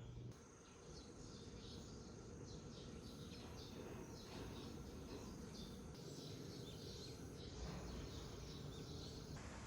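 Faint outdoor ambience of small creatures chirping: many short, high chirps repeating irregularly over a low, steady rumble.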